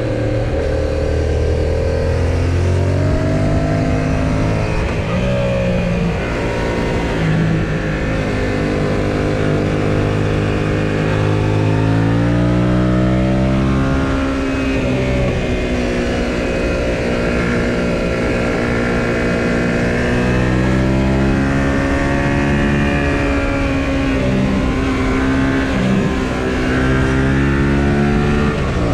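2018 Yamaha XSR700's parallel-twin engine running under way, its revs climbing and dropping several times, over a steady rush of wind and road noise.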